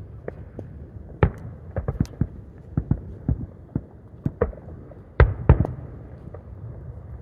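Fireworks shells bursting in quick, irregular succession, a dozen or more bangs and cracks over a continuous low rumble, with the two loudest bangs about five seconds in.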